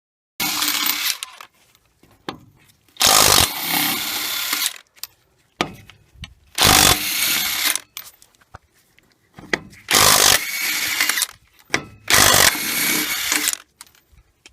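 DeWalt 20V XR DCF894H 1/2-inch cordless impact wrench run in five short bursts of about one to two seconds each, with pauses between.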